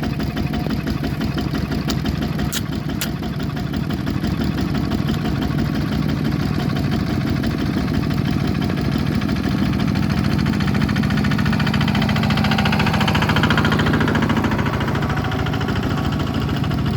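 Bulldozer's diesel engine running steadily, with a few sharp clicks about two to three seconds in. The engine grows louder and higher from about ten seconds in, then eases off slightly near the end.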